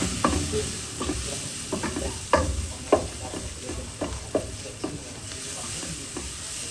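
Food sizzling in a frying pan while a spoon stirs it, knocking and scraping against the pan about twice a second.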